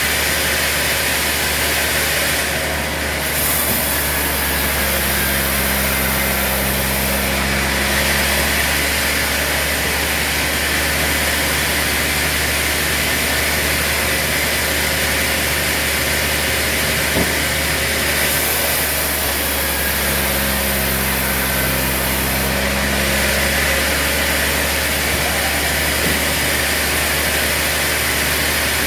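Sawmill machinery running with a steady, loud mechanical drone. Twice, about 15 seconds apart, its tone changes for a few seconds, as in a repeating sawing cycle.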